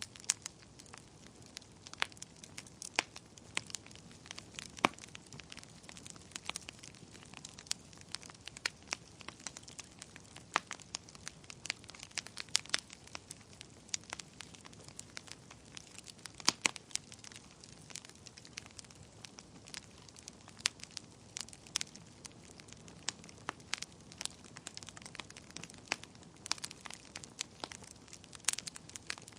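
Wood fire burning in a fireplace, with frequent irregular sharp crackles and pops over a soft steady hiss.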